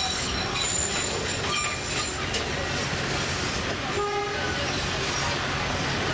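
Narrow-gauge tourist train rolling steadily, heard from its open-topped upper deck: a continuous rumble of the wheels on the track, with short high wheel squeals now and then.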